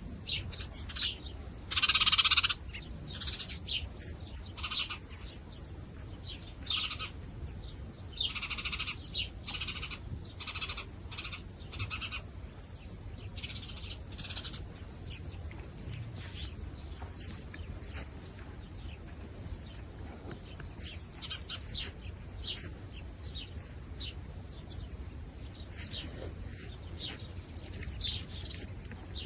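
Small birds chirping: many short, sharp chirps, loudest about two seconds in and thinning out in the second half, over a low steady rumble.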